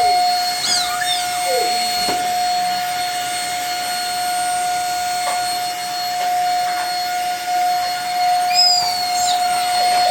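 Corded vacuum cleaner running steadily with a constant high whine over its hiss. A couple of brief high squeals glide over it, about a second in and again near the end.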